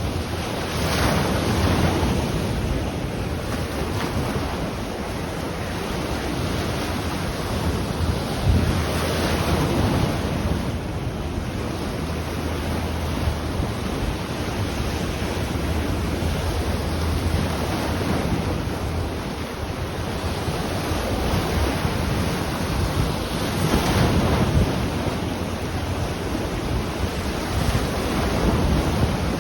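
Ocean waves breaking and washing on the shore, the surf swelling every several seconds, with wind rumbling on the microphone underneath.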